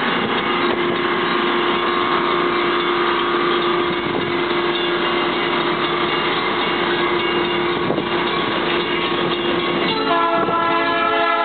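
Stainless-steel passenger cars of a departing train rolling past at low speed: a steady rumble with a constant whine over it. About ten seconds in, the train's air horn starts to sound, a chord of several tones held on.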